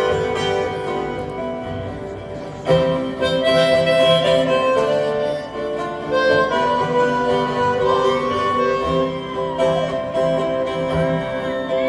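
Harmonica playing an instrumental break over strummed acoustic guitar in a live folk-country song, with a few bent notes.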